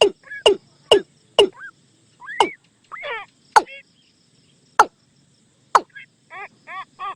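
Watercock calls used as a trapping lure: sharp, loud notes that sweep quickly downward, coming about once a second, then a quicker run of short rounded notes, about four a second, near the end.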